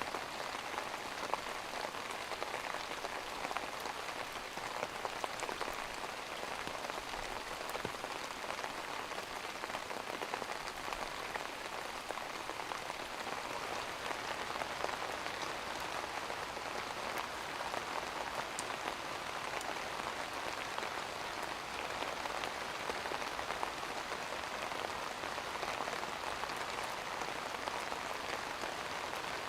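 Steady rain falling on a surface, an even patter with scattered drop ticks.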